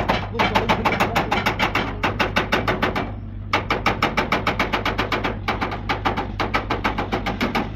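Rapid, even hammer taps on metal, about six a second, in two runs with a short break about three seconds in, over a steady low hum.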